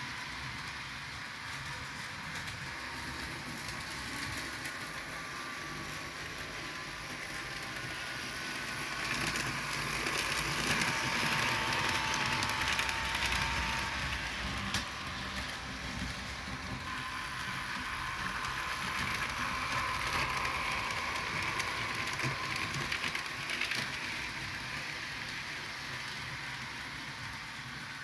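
Model train led by diesel locomotives running along the layout's track, a steady rolling rumble that grows louder twice as the train passes close by. There is a single sharp click about fifteen seconds in.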